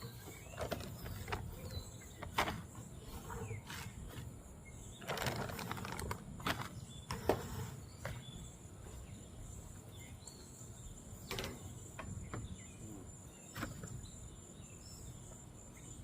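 Quiet outdoor evening ambience: a steady high insect trill, a few faint bird chirps, and scattered short clicks and rustles.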